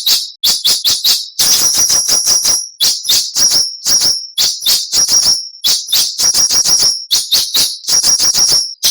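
Songbird giving harsh, rapid rasping calls, the sharp 'besetan' rasp: runs of quick dry clicks that several times break into a longer high buzzing rasp, with short gaps between bursts.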